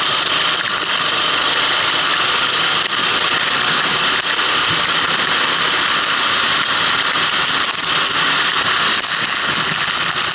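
Kart engine running on track, heard from an onboard camera over a steady, loud rushing hiss.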